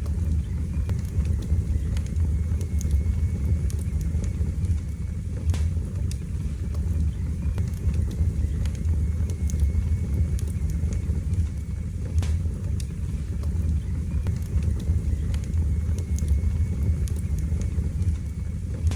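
Wood fire burning in a fireplace: a steady low roar of the flames with scattered sharp crackles and pops every second or few.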